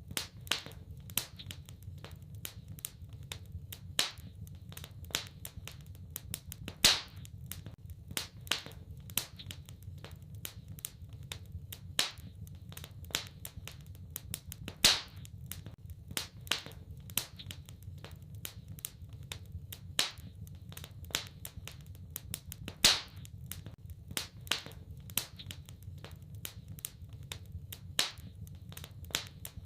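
Wood fire crackling in a fireplace: a steady stream of small snaps, with a loud pop about every eight seconds, over a low steady rumble.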